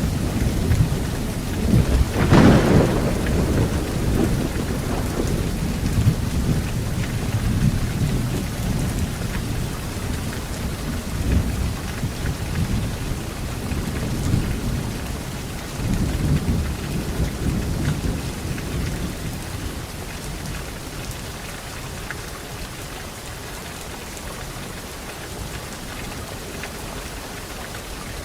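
Thunderstorm: steady heavy rain with a sharp thunderclap about two seconds in, followed by rolling rumbles that die away, leaving only the rain by the end.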